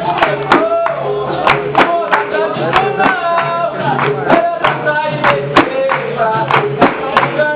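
Capoeira roda music: voices singing a melody over a steady low tone, punctuated by frequent sharp percussive strikes.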